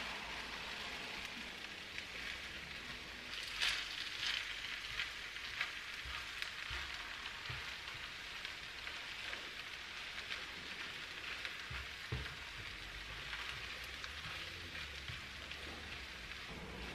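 Kimchi fried rice sizzling in a nonstick frying pan while a spatula stirs cooked rice into it, a steady hiss with scattered clicks and scrapes of the spatula against the pan, a cluster of them about four seconds in.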